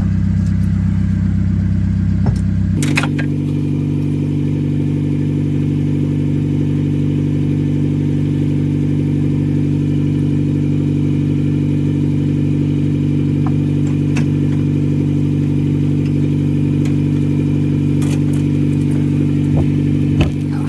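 VW Jetta TDI diesel engine running steadily, heard from inside the car. Its drone steps up in pitch about three seconds in, with a click, then holds level.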